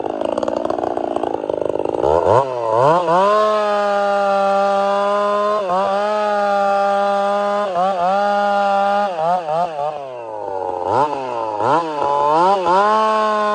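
Two-stroke chainsaw bucking tamarack firewood: the engine labours with a wavering pitch while in the cut, then about two seconds in revs up to a high, steady full-throttle pitch. The throttle dips briefly several times and drops almost to idle around ten seconds in before revving up again.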